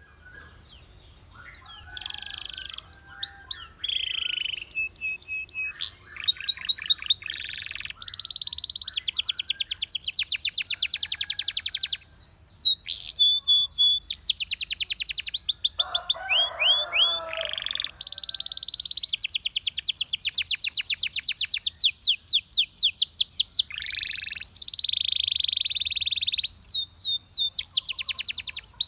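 Canary singing: long, fast trills of rapidly repeated high notes alternating with shorter rolls and whistled phrases, broken by brief pauses. A rougher, lower call comes about 16 seconds in.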